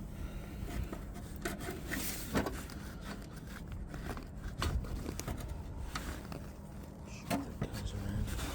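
Old metal wiper vacuum pipe being dragged up through a grommet and the truck's bodywork, making rubbing and scraping noises with scattered sharp knocks and clicks.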